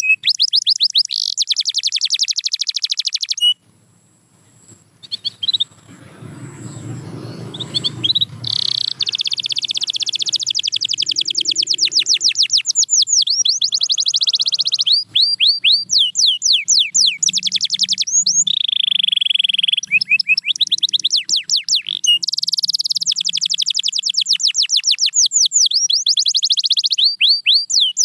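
Domestic canary singing in fast trills of rapidly repeated high notes, phrase after phrase. The song breaks off for a few seconds near the start, when a low rumble is heard.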